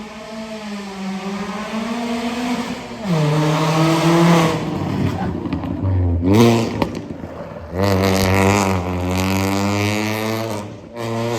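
Car engine revving hard during a drift run, the pitch rising and falling, with a quick sharp rev-and-drop about six seconds in before it holds high again, over a steady hiss.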